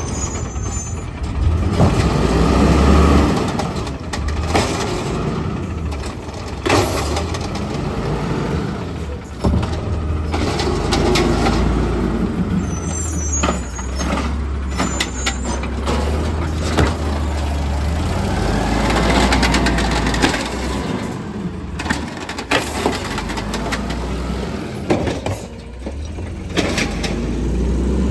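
Garbage truck's diesel engine running and revving up and down in swells, with sharp clanks and knocks scattered throughout.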